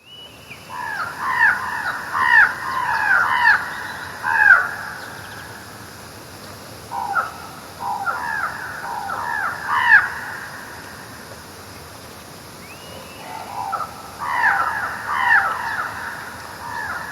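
Crow-family birds cawing in three bouts of short repeated calls, with lulls of a couple of seconds between bouts.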